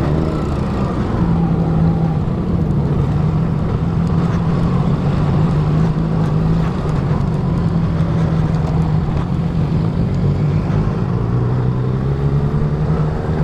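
Honda CB 250F Twister's single-cylinder engine running while the motorcycle rides at a steady pace. The engine note holds steady, then drops a little about ten seconds in.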